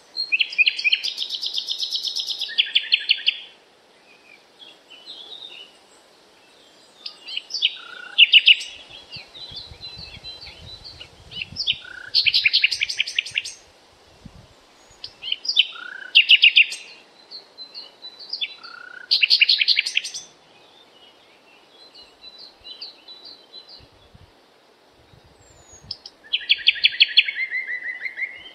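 A songbird singing loud trilled phrases of rapid repeated notes, each one to three seconds long, coming every few seconds over a steady low background hiss.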